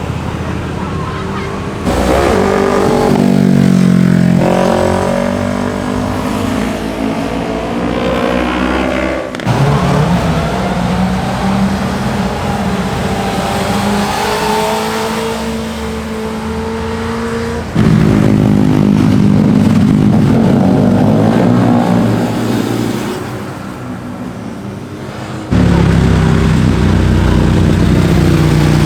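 A series of sport motorcycles riding past through curves, engines revving up and down through the gears. The sound changes abruptly about every seven to eight seconds as one pass gives way to the next.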